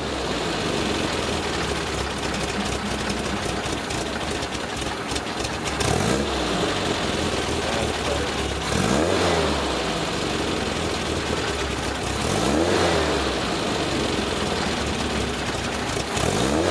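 Vintage VW Beetle's air-cooled flat-four engine idling near 1,000 rpm, with the throttle blipped four times, about every three seconds: each time the revs rise briefly and fall back to idle.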